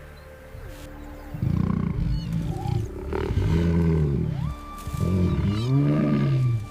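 Lion giving three long, deep growling roars, each rising then falling in pitch.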